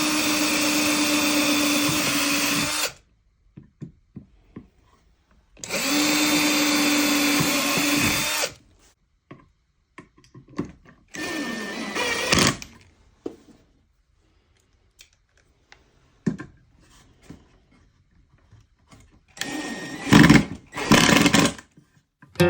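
Electric drill run in bursts. Each burst spins up to a steady whine and winds down: two runs of about three seconds, then shorter ones near the end, with light knocks between.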